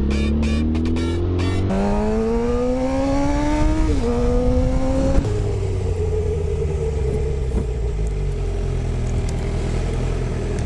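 2015 Suzuki GSX-R 750 inline-four with an Akrapovic slip-on exhaust accelerating, its pitch rising, dropping at a gear change about four seconds in, rising again, then holding steady at cruising speed with wind noise.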